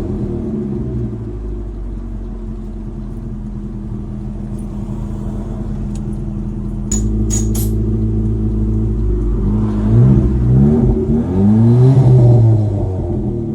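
Twin-turbo Mitsubishi Mighty Max pickup's engine running steadily under way, then revving up and down repeatedly in the last few seconds as it accelerates. A few sharp clicks come about seven seconds in, as the engine note steps up.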